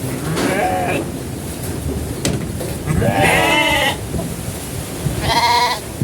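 Goats bleating three times, the last call higher-pitched, over a steady low rumble of wind. The uploader takes the bleating for goats that are cold and hungry.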